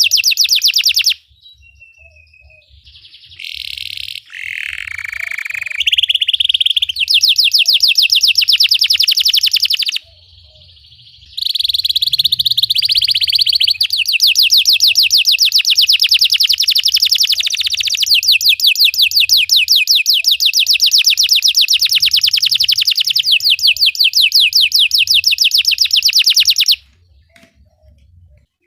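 Belgian canary singing in long rolling trills of very fast, evenly repeated high notes. The song breaks briefly about a second in, giving way to softer, lower warbled notes. It pauses again around ten seconds in and stops near the end.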